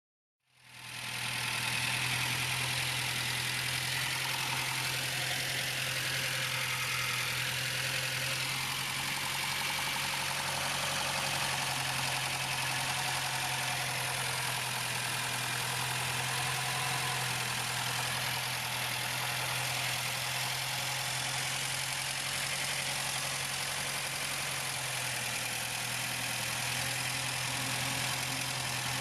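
1976 Volkswagen Golf I's 1.6-litre four-cylinder petrol engine idling steadily, fading in during the first second or two.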